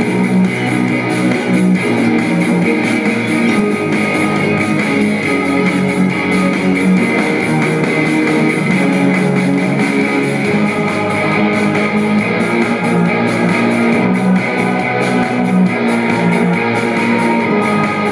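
Guitar music playing steadily throughout.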